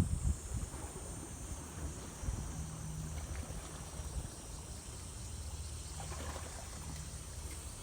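A steady low engine rumble from a boat, with a high, even drone of insects over it.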